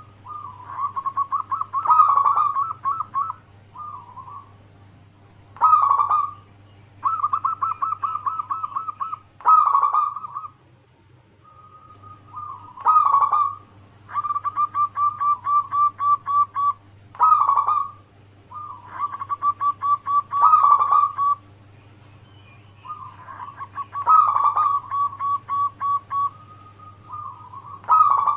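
Zebra dove (perkutut) cooing: repeated phrases that each open with a sharp note and run into a rapid rolling trill, one to three seconds long with short pauses between.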